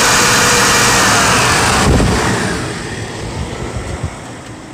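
Chevy 5.7 L Vortec 350 V8 running at a raised speed, above 1,000 RPM for setting the distributor timing. About two seconds in the engine note drops and the sound gets clearly quieter, settling to a lower idle.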